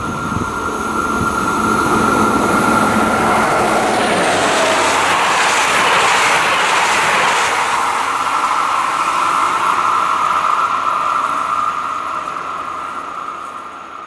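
A train passing close by: a rushing rumble that swells to its loudest in the middle and then fades, with a steady high-pitched whine held throughout.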